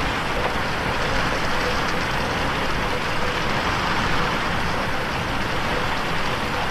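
Steady rain falling against a window pane: an even, unbroken hiss with no thunder.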